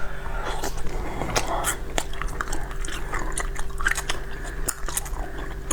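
Ice being bitten and crunched between the teeth: a quick, irregular run of sharp cracks and crunches.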